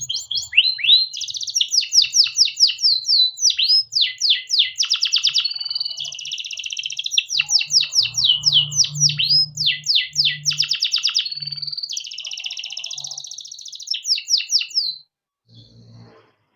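Male domestic canary singing a long continuous song of rapid repeated downward-sweeping notes, broken by buzzy rolled trills. The song stops about fifteen seconds in.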